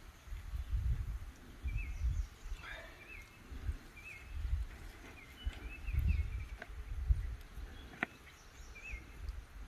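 A songbird repeating a short, high chirping call every second or so, over irregular low rumbling buffets, with a couple of faint clicks.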